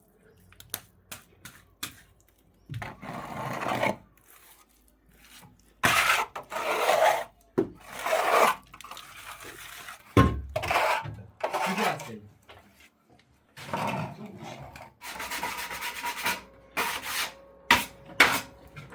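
Repeated scraping strokes of a hand tool rubbing over a rough surface, each about a second long, with a few sharp knocks between them.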